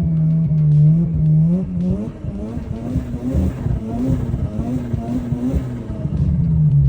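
Rotary engine of a swapped Subaru BRZ running through a loud exhaust: a steady note, then from about two seconds in the pitch rises and wavers with a choppy, stuttering edge under throttle, dropping back to a steady lower note near the end.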